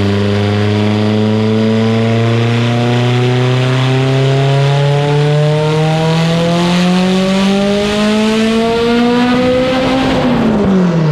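Mitsubishi Lancer Evolution VIII's turbocharged four-cylinder making a wide-open-throttle pull on a chassis dyno. The revs climb steadily for about ten seconds, then drop quickly near the end as the throttle is lifted. This is the initial base run at about 21–22 psi of boost.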